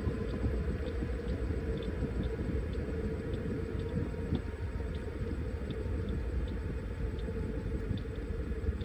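Washing machine running: a steady low rumble with light, irregular ticks about once or twice a second.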